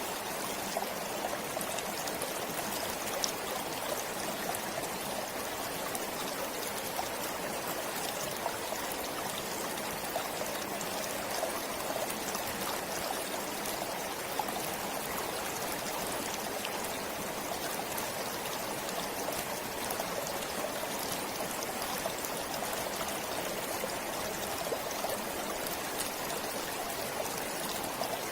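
Forest stream flowing steadily over rocks, a continuous rush of water with small splashes and trickles.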